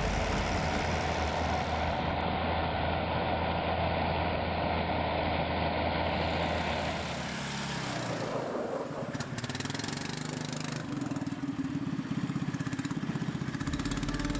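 A motor vehicle's engine running. Its sound changes about seven or eight seconds in, to a quieter, evenly pulsing run.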